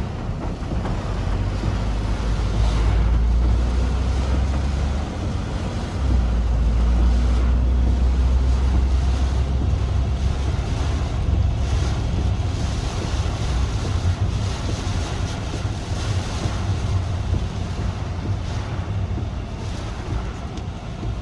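Typhoon wind gusting against the microphone: a heavy low rumble that swells and eases, over a steady rushing hiss.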